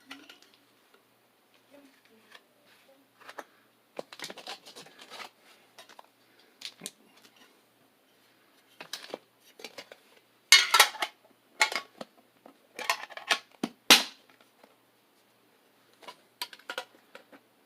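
Pokémon trading cards and their packaging being handled: scattered crinkles, clicks and rustles, busiest and loudest from about ten to fourteen seconds in.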